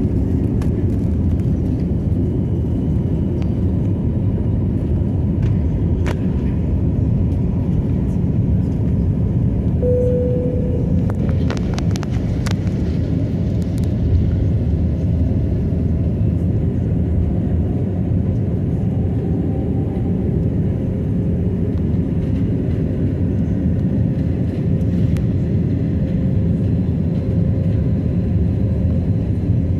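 Airbus A320 jet engines and airflow making a steady low rumble that neither rises nor falls. A short steady tone sounds about ten seconds in, and a few light clicks follow a couple of seconds later.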